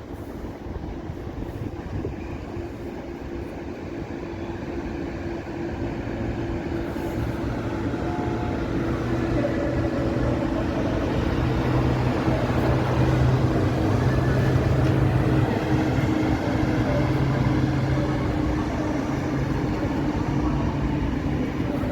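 EP09 electric locomotive hauling a passenger train into the station. It grows steadily louder over about twelve seconds, then holds, with a steady low hum running under the rumble.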